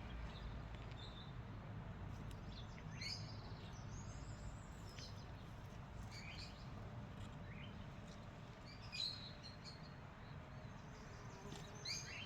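Small birds chirping on and off, short high calls every second or two, over faint steady background noise.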